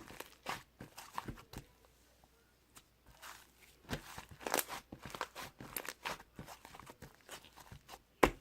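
Slime being squeezed and pressed by hand, giving irregular small clicking and crackling pops from trapped air, busiest about halfway through, with one sharp loud pop near the end.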